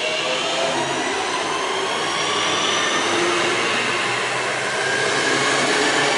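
Class 323 electric multiple unit passing close by on the rails: several whining tones from its traction equipment rise in pitch as it accelerates, over a steady rumble of wheels on track.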